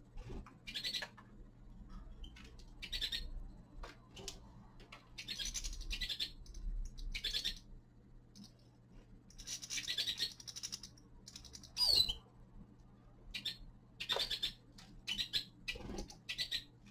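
Small finches giving short, raspy chirps and calls, about a dozen scattered bursts, the loudest a sharp falling call about twelve seconds in. A steady low hum runs underneath.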